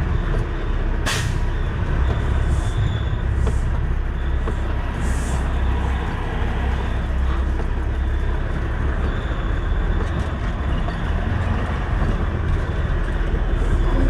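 Semi-truck diesel engine running at low revs while the driver maneuvers to park a trailer. There is a sharp hiss of released air about a second in, then several shorter, softer hisses over the next few seconds.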